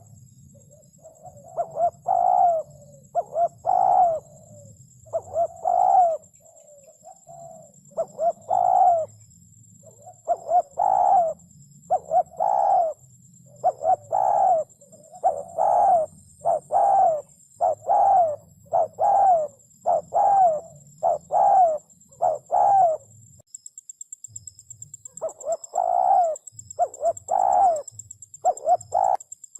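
Spotted dove cooing: phrase after phrase of short, repeated coos, with a pause of about two seconds near the end.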